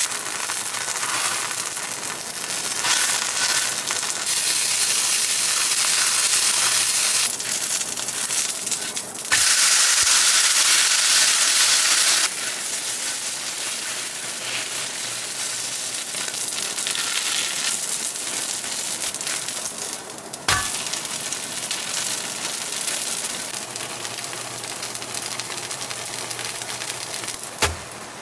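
Food sizzling as it fries in a hot pan, a steady hiss that grows louder for a few seconds near the middle. A sharp knock comes about two-thirds of the way through and another near the end.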